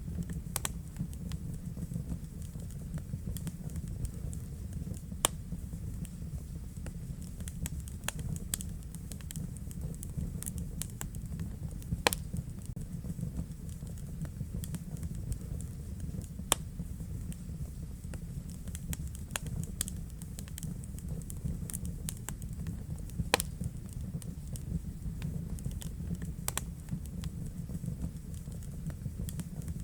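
Fire burning in a fireplace: a steady low rumble with frequent irregular crackles and sharp pops, a few of them louder than the rest.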